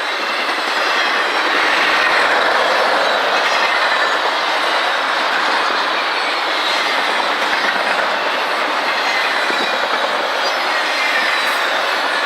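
CSX intermodal freight train rolling past, a steady loud rush of steel wheels on rail with some wheel squeal and clatter over the rail joints.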